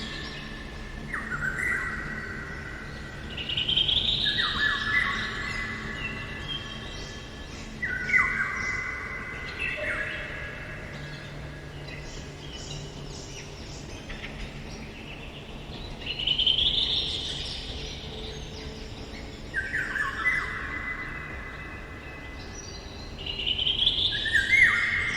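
Eurasian golden oriole singing in a forest, short fluty whistled phrases repeated every few seconds.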